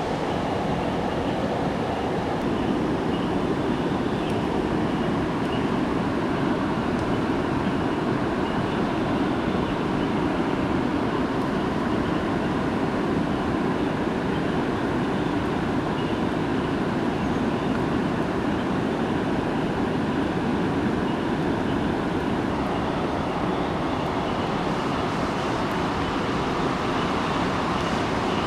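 Steady roar of a waterfall, water falling and rushing without a break.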